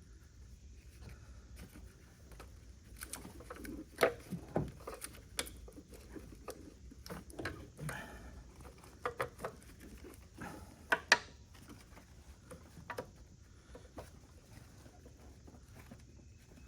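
Scattered clicks, taps and light knocks of hand tools and parts being worked loose in a car's engine bay, with sharper knocks about four and eleven seconds in.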